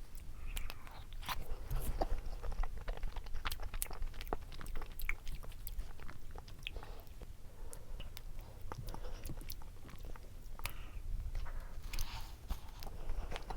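Close-miked eating of a frozen ice cream dessert: irregular bites and chewing, with small crunches and clicks.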